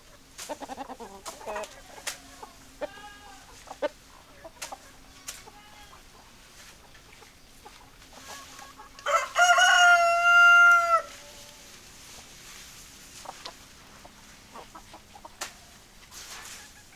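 Chickens clucking in short calls, then a rooster crows once, loud and about two seconds long, about nine seconds in. Scattered sharp clicks are heard throughout.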